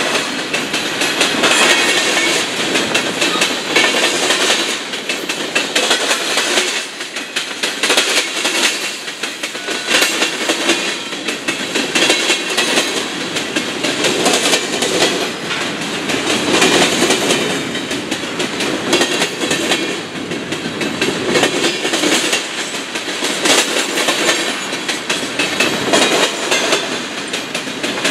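Freight train cars, covered hoppers and tank cars, rolling past at steady speed, the steel wheels clacking in repeated clusters as each car goes by.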